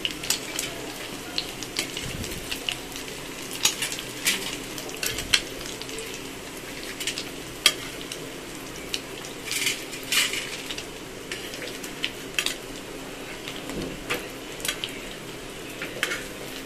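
Dal and chicken tikkis sizzling in ghee on a flat tawa, with a steady hiss and frequent crackles. Several times, metal tongs clink and scrape against the tawa as the cooked tikkis are lifted off.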